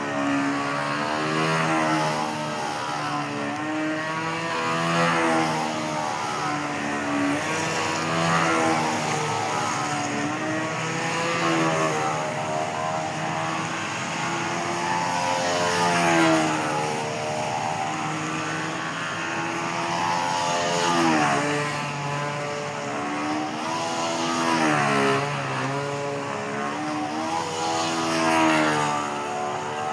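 Two-stroke Fora .68 nitro engine of a control-line stunt model plane running continuously at high revs, its propeller drone bending up and down in pitch as the plane circles and manoeuvres. It swells in loudness about every four seconds as the plane passes on each lap.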